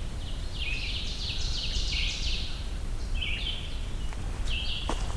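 Winter wren singing: quick runs of high, thin notes, one long run in the first half followed by two short bursts, over a steady low rumble.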